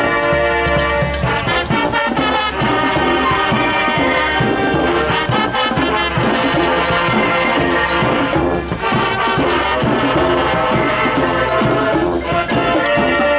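High school marching band playing, with brass (trumpets and trombones) holding sustained chords over a steady drum beat.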